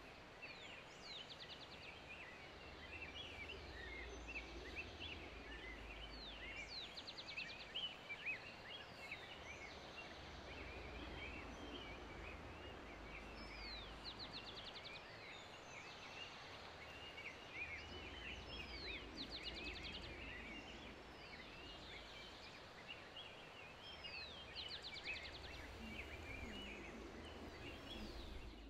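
Faint outdoor ambience of many small birds chirping. One call, a rising note followed by a fast trill, comes back about every five seconds over a low, steady rumble.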